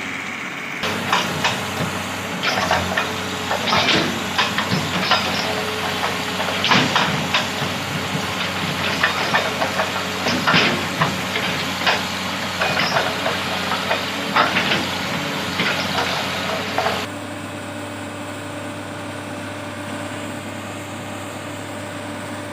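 Heavy machine's diesel engine running steadily, with irregular knocks and crunches over it. About 17 seconds in the knocks stop abruptly, leaving a steadier, quieter engine hum.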